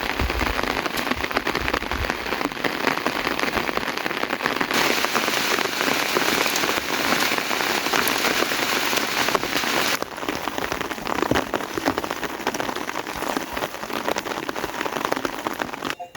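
Heavy rain falling: a dense, steady hiss full of individual drop hits, which changes abruptly in strength about five and ten seconds in.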